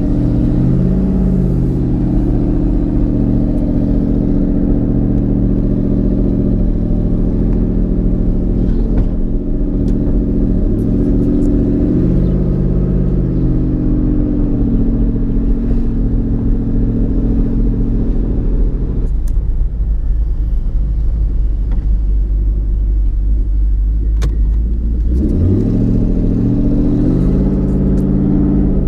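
Twin-turbocharged 2014 Mustang GT's 5.0 Coyote V8 driving on the road, its pitch rising and dropping several times as it pulls through the gears. It eases off about two-thirds of the way in, then builds again near the end.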